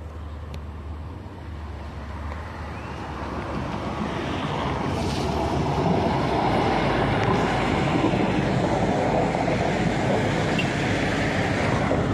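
Trenitalia regional electric multiple unit approaching and running past close by, the noise of its wheels on the rails growing over the first few seconds and then staying loud as the cars go by.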